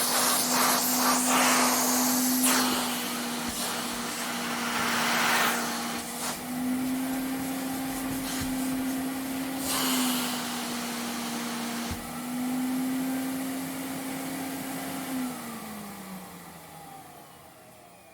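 Vacuum cleaner running with a steady motor hum under a rushing suction hiss that surges loudly several times. About fifteen seconds in it is switched off: the hum falls in pitch and fades as the motor winds down.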